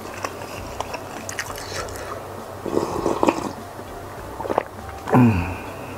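Close-miked mouth sounds of a person chewing a full mouthful of food, with wet squishy clicks and smacks. About five seconds in comes a short hum-like groan falling in pitch, a reaction to very strong chilli heat.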